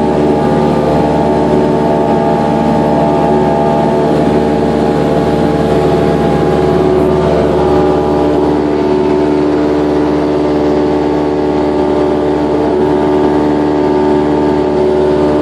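Cessna 172's piston engine and propeller running at a steady drone.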